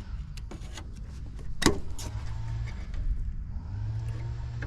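A steady low machine hum, with several sharp clicks and knocks from parts and tools being handled; the loudest knock comes about a second and a half in.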